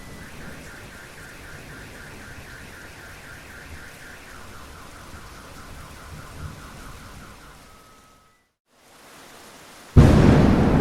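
Steady rain falling, with a faint, rapidly repeating warble behind it; the sound cuts out for a moment, then a sudden loud thunderclap breaks near the end and carries on over heavy rain.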